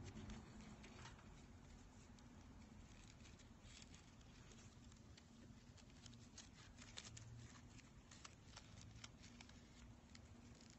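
Near silence, with faint scattered ticks and rustles of raffia braid and twine being worked by hand.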